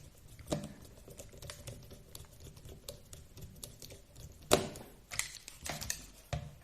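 Scattered light clicks and taps of small RC car parts and screws being handled on a workbench, the loudest about four and a half seconds in.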